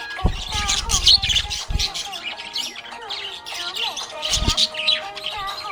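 Budgerigar chirping and warbling in quick, busy runs of high notes, over background music, with a few short low rumbling bursts.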